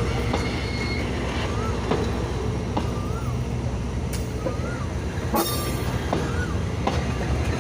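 A train running on the rails: a steady low rumble with sharp clacks and knocks scattered through it, and a short rising-and-falling chirp that recurs about every second and a half.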